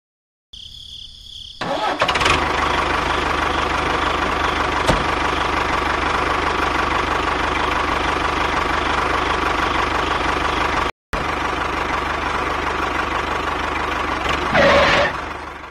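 A steady engine-like running sound that starts about two seconds in, just after a short high tone, and cuts out for an instant about eleven seconds in.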